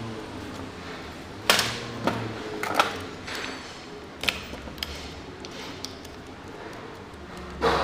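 Sharp metallic clicks and taps from small carburetor parts and hand tools being handled and set down on a workbench, several of them at uneven intervals over a faint low hum.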